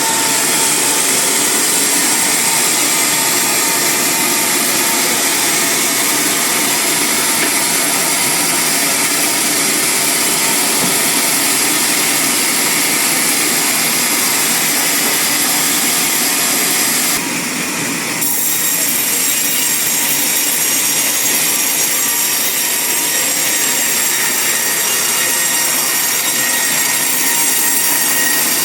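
Band sawmill blade cutting through a large log, a steady loud sawing noise with the mill's motor running. It dips briefly for about a second roughly two-thirds of the way through, then carries on.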